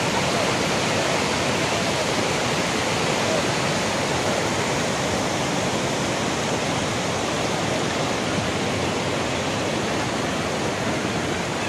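Steady rush of floodwater from heavy rain pouring into a harbour dock, an even, unbroken roar of water.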